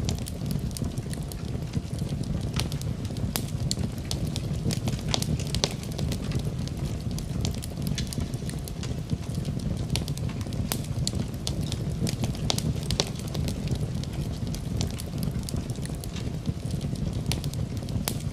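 Fire burning in a fireplace: a steady low rush of flames with frequent sharp crackles and pops.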